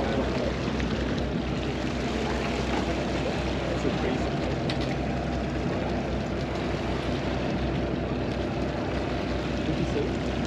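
Steady low hum of an engine running at constant speed, with faint voices underneath.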